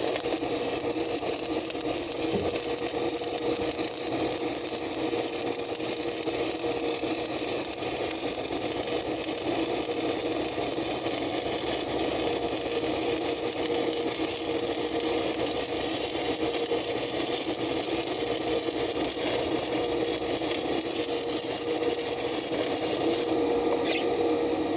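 Stick-welding arc crackling and hissing steadily as a bead is run; the highest part of the hiss cuts off near the end.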